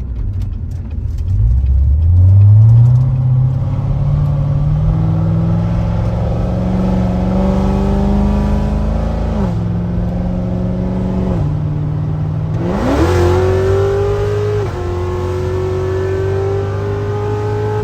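Supercharged LT4 V8 of a C7 Corvette Z06 with a BTR stage 2 camshaft, accelerating hard: a long pull rising in pitch from about two seconds in, several drops in pitch at gear changes, and a sharp climb in revs about two-thirds of the way through before it pulls again.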